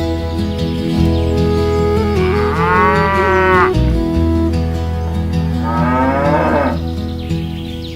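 Cattle mooing twice, two long calls, the first a couple of seconds in and the second around six seconds, over steady background music.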